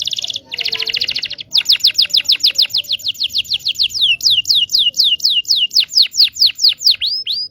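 Local Indonesian canary singing: two short buzzy trills, then a long run of quick, repeated downward-sweeping whistled notes, about five a second, that cuts off abruptly at the end.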